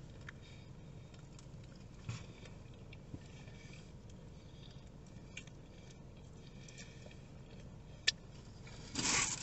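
Faint wet chewing and mouth sounds of a man eating a sauce-covered fried chicken sandwich, with small scattered clicks. About 8 seconds in comes one sharp lick as he sucks sauce off a finger, then a brief hiss just before the end.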